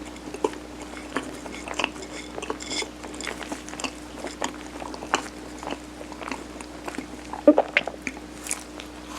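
Close-miked chewing of mung bean sirutteok (Korean steamed rice cake), with small wet mouth clicks and smacks scattered throughout and a sharper one about seven and a half seconds in. A faint steady hum runs underneath.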